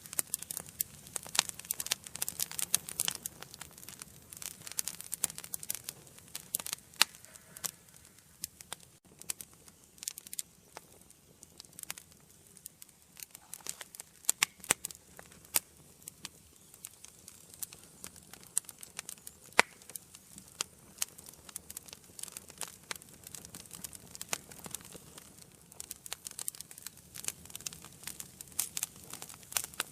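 Wood fire burning in a fireplace, crackling with many sharp irregular pops and snaps, denser at the start and again near the end.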